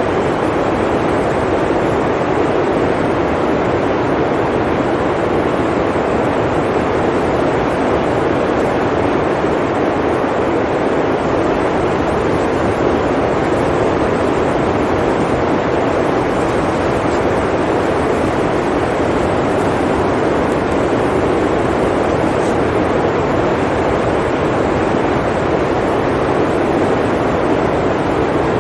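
Blizzard wind blowing steadily, a constant rushing noise with no gusts, breaks or separate events.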